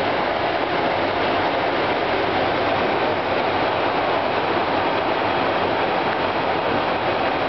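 Steady rushing noise inside a jet airliner's flight deck at cruise altitude: the constant sound of air streaming past the aircraft at speed, even in level throughout.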